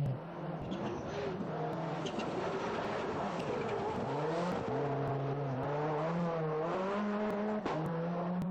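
A 1998 World Rally Car's turbocharged four-cylinder engine revving hard past the roadside. Its pitch dips near the start, climbs from about four seconds in, then rises and falls repeatedly as the driver works the throttle.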